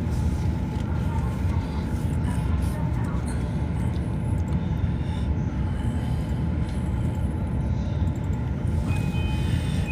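Commuter train running, heard from inside the carriage: a steady low rumble of wheels on rails. A thin, high, steady tone starts near the end.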